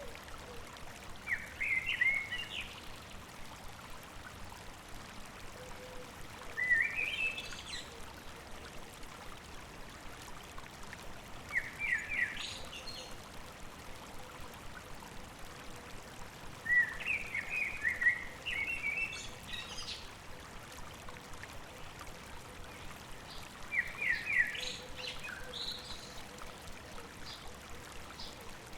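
A songbird singing short, quick phrases about every five seconds, five times, over the steady sound of a stream running.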